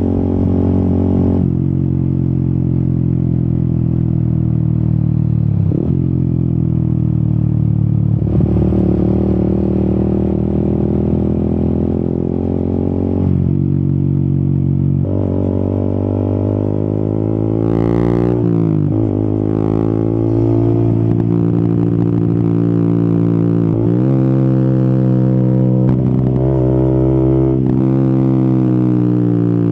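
Yamaha XSR 155's single-cylinder engine running under load while riding. Its pitch climbs and then drops several times as it shifts gears, with a stretch of quick revving about two-thirds of the way through.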